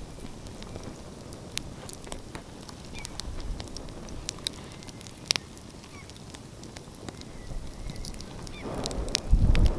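Open wood fire crackling, with sharp irregular pops and snaps over a low hiss. A low rumble swells near the end.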